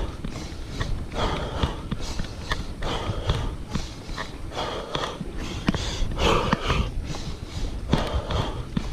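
A cyclist's hard, rhythmic breathing while pedalling up a steep hill, about one to two breaths a second, over a low rumble of wind and tyres on the microphone.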